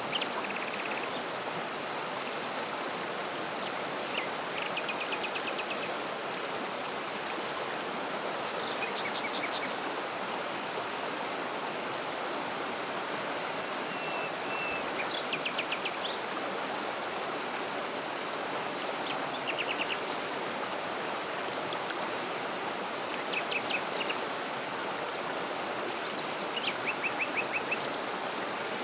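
Waterfall rushing steadily, with small birds calling over it in short runs of quick repeated high notes, about seven times.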